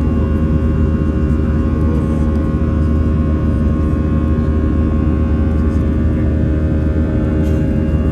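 Steady cabin noise inside an Airbus A319 airliner in flight: jet engine drone and airflow with a strong low rumble and a few steady hum tones.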